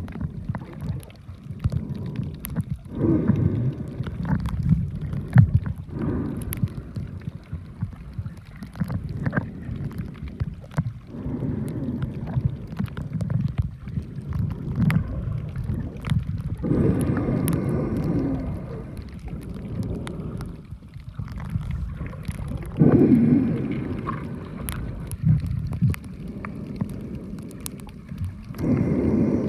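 Muffled underwater water noise: low rumbling and gurgling water around a submerged camera, swelling louder now and then.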